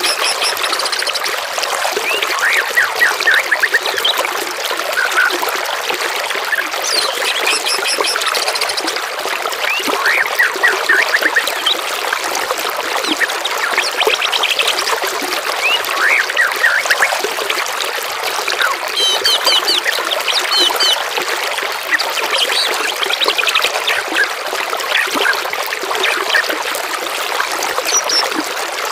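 Running water babbling steadily, with several songbirds chirping and trilling over it in quick runs of short notes throughout.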